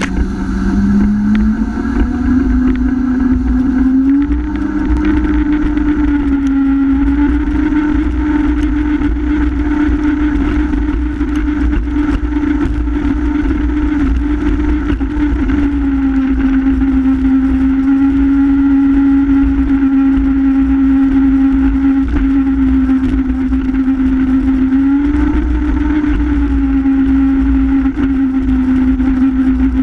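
Honda F-12X AquaTrax personal watercraft's turbocharged four-stroke engine running hard under way. Its pitch climbs over the first few seconds, then holds steady, easing down a little around the middle and climbing again near the end, over a heavy low rumble.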